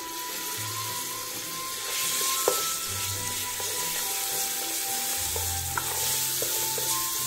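Homemade seasoning paste frying in hot oil in an aluminium pan, sizzling steadily as a wooden spoon stirs it, the sizzle a little louder from about two seconds in.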